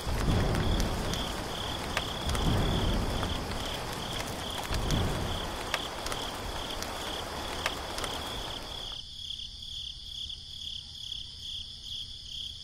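Crickets chirping steadily under a rain-and-thunder ambience: low thunder rumbles about at the start, about two and a half seconds in and about five seconds in, with a steady rain hiss that stops about nine seconds in, leaving only the crickets.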